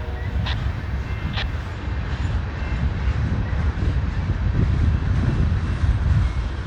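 Low, steady rumble of a departing BNSF freight train, with wind buffeting the microphone. Two faint clicks come about half a second and a second and a half in.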